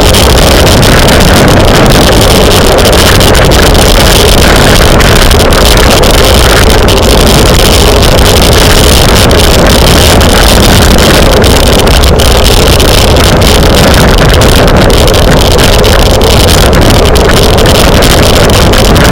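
Loud, steady wind noise on the microphone of a camera carried on a racing bicycle at speed, with no break or change.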